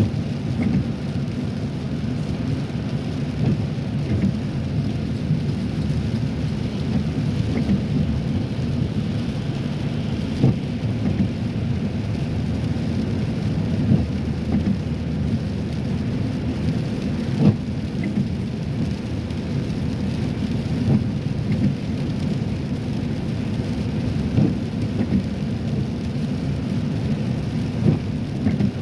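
Inside a car driving on a wet road in cold rain: a steady low rumble of tyres and engine, with a short knock about every three and a half seconds.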